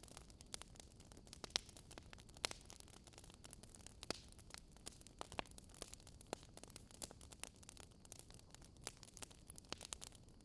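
Wood fire crackling softly: irregular small pops and snaps over a faint hiss.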